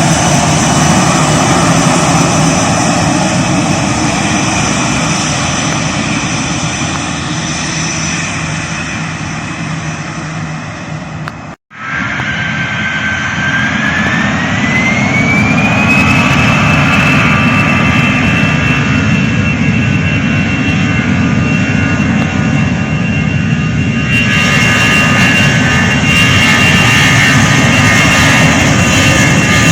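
Jet airliner engines running loud and steady, with a brief break about a third of the way in. After the break a high engine whine rises in pitch over a couple of seconds and then holds steady.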